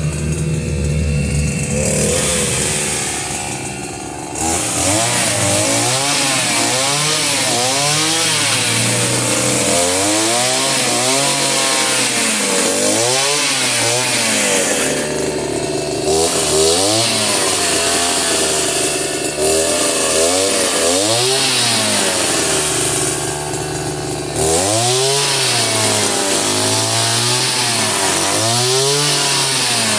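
Small petrol-engined power tool revving up and down again and again, its pitch rising and falling about once every one to two seconds.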